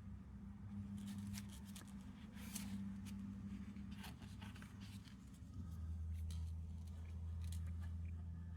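Faint scattered clicks and light scrapes of small-scale hand work, over a steady low hum that shifts lower in pitch a little past halfway.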